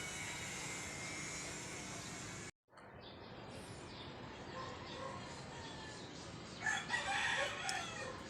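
Steady background noise that cuts out briefly about two and a half seconds in, then a bird call, loud and wavering for about a second near the end.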